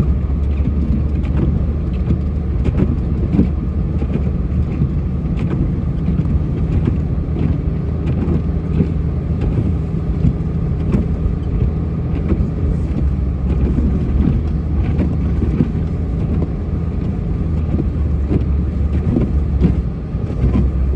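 Engine of a snowplow vehicle running steadily while plowing, a continuous low drone with faint scattered clicks.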